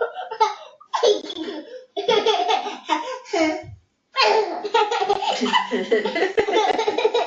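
A baby laughing in bouts, with short breaks between them and a longer unbroken run of laughter in the second half.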